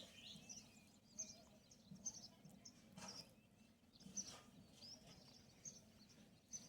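Faint chirping of small birds, short high calls repeating about every second, over a low steady background hum.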